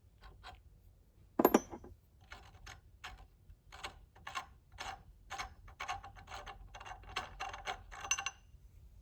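Metal tools and parts handled at a workbench: one loud knock about a second and a half in, then a run of quick metallic clicks, several a second, as the tap and handle are worked in the carburetor.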